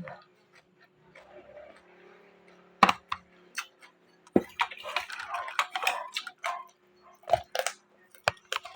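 Close-up crunching and chewing of raw vegetables, irregular crisp crunches with a loud bite about three seconds in and a dense run of crunching in the middle.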